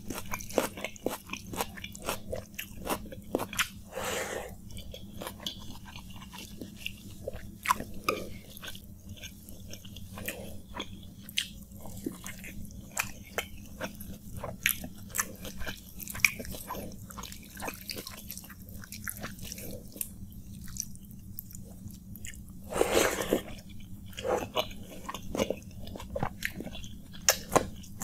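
Close-miked eating of wet water rice (panta bhat) by hand: wet chewing and smacking with quick clicks and occasional crunches, and the squish of fingers mixing rice with mashed potato. One longer, louder noise comes about 23 seconds in.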